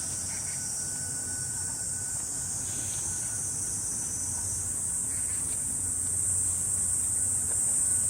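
Summer cicadas singing in a steady, high-pitched drone, growing a little louder near the end, over a low background rumble.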